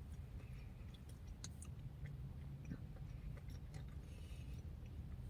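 Faint chewing of a mouthful of pecans: scattered soft crunches and small clicks over a low steady hum.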